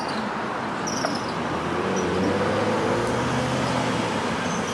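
Street traffic noise, with a motor vehicle's engine passing close by: its hum swells in the middle and fades away.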